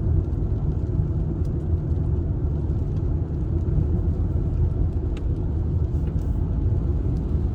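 Steady low rumble of a car driving at road speed: tyre and engine noise heard from inside the cabin, with a few faint light ticks.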